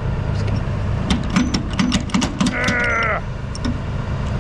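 Dump truck's diesel engine running with a steady low rumble, with scattered clicks and rattles, and a short wavering tone that falls slightly in pitch about two and a half seconds in.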